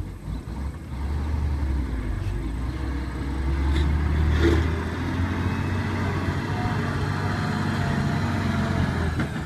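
A vehicle engine running steadily with a low hum, growing louder about four seconds in, then settling.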